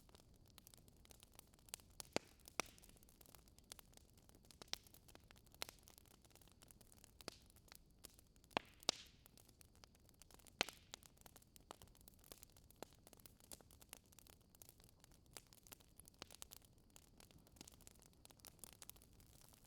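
Wood fire crackling in a fireplace: sparse, irregular pops and snaps over a faint steady hiss, a few louder snaps standing out.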